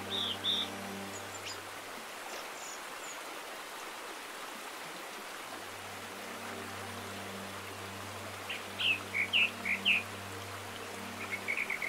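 Birds chirping: a few high chirps near the start, a cluster of quick chirps about two-thirds of the way through, and a fast trill at the end. Under them runs a steady low drone that drops out for a few seconds early on.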